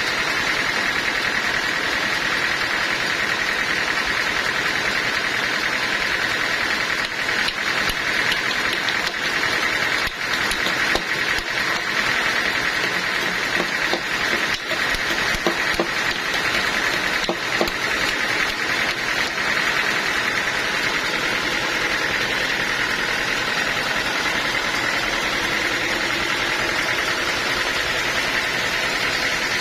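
Sawmill machinery running steadily, with a few clicks and knocks over the middle stretch.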